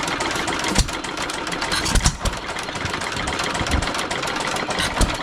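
Three antique stationary gas engines (a Saxon, a Hercules and a Sattley) running together. A steady mechanical clatter is broken by heavy firing thumps at irregular intervals, a second or more apart.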